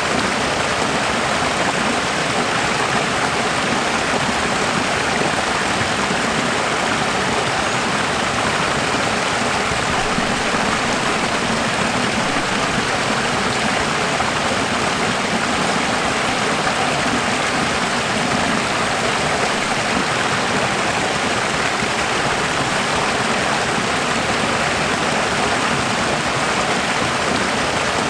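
Running water: a steady, even rushing of flowing water, unchanging throughout.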